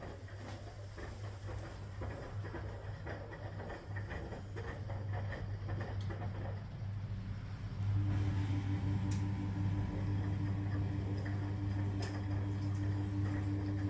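Constructa K4 fs washing machine running with a steady motor hum and light irregular clicks. About eight seconds in the motor gets louder and takes on a higher, steadier whine.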